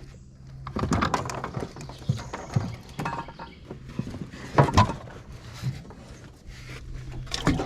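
Hollow knocks and clatter against the boat as a caught bream is handled and put into the live well, the loudest knock a little before five seconds in, over a low steady hum.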